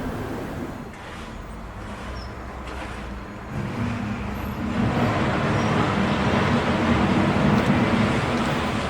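2ES6 'Sinara' electric locomotive hauling a freight train as it approaches. The running noise grows louder from about halfway in, with a steady low hum from the locomotive.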